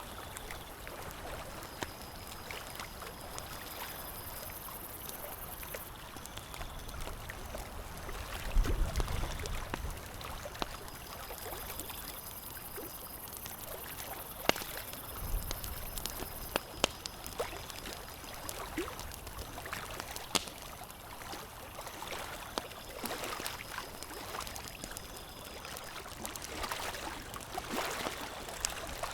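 Campfire crackling with scattered sharp pops over a steady wash of lake water lapping. Two dull low thumps come about a third and halfway through.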